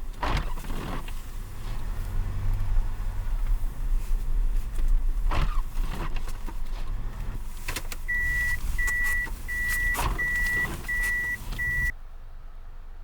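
A vehicle engine running with a steady low rumble and a few thuds. Past the middle come six evenly spaced high beeps, about two-thirds of a second apart. The engine and the beeping stop together near the end.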